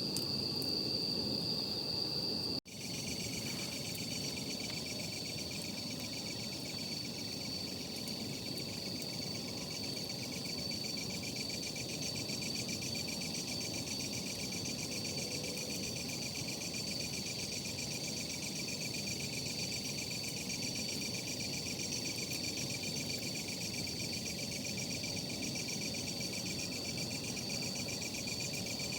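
Night insects trilling steadily in a continuous high pulsing chorus, over the low crackle and hiss of a campfire. The sound drops out for an instant about two and a half seconds in, where the recording is cut.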